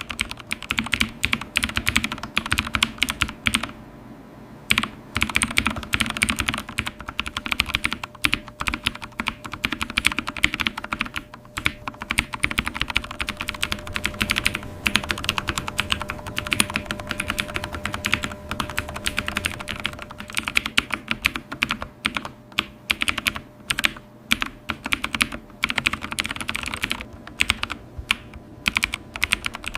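Fast, continuous typing on a computer keyboard: a dense run of key clicks, with a short pause about four seconds in.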